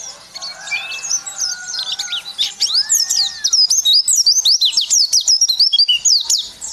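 White-eye (pleci) singing a fast, high-pitched twittering song of quick chirps that becomes denser and louder from about halfway on, with a few slower, lower whistled notes mixed in.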